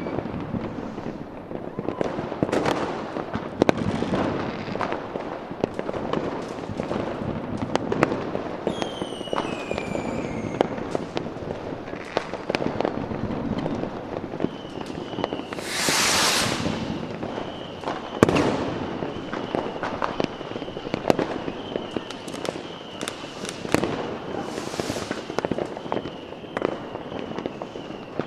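A fireworks display: a steady run of sharp bangs and crackles. A falling whistle comes about nine seconds in. Hissing bursts come near the middle and again near the end, and a faint high pulsing tone runs through the second half.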